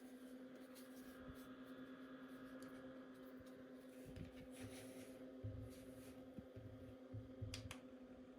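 Faint steady hum with light handling noises: soft rustles and clicks, and a few low knocks in the second half.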